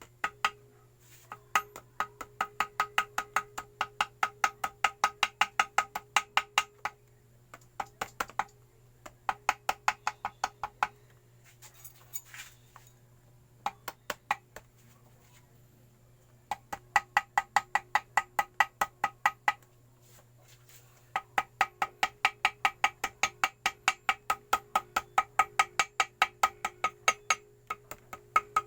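Small hammer tapping rapidly and lightly on gasket material laid over the motorcycle engine's metal mating face, about five ringing taps a second in runs of several seconds with short pauses: the usual way of cutting a homemade gasket to the shape of the case edge.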